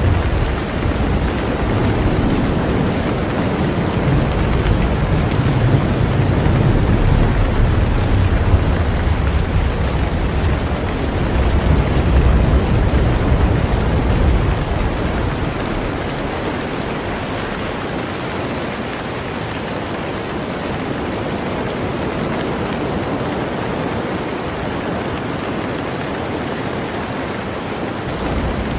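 Heavy rain falling steadily on a boat, a continuous even hiss. Thunder rumbles low under the rain through the first half and dies away about halfway through.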